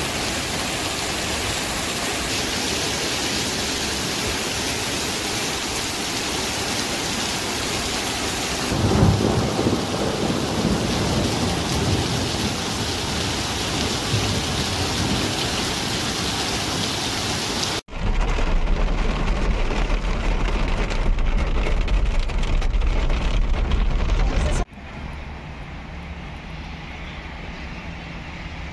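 Heavy rain pouring steadily, with a rumble of thunder about nine seconds in. After a sudden cut about two-thirds of the way through, a different recording carries a loud low rumble, then drops to a quieter stretch near the end.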